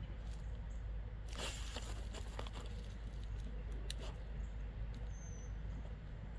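A dog digging in soft dirt: irregular scratching and scraping with patter of loose soil, a denser flurry about a second and a half in and a sharp click near the middle.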